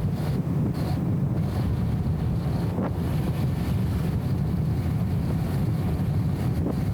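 Steady low, muffled rumble of the BMW E34 M5 Touring under way, with its straight-six engine and road noise flattened by the camera's anti-wind filter.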